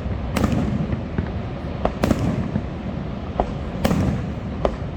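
Aerial fireworks bursting: about six sharp bangs at irregular intervals, some louder and some more distant, over a steady low rumble.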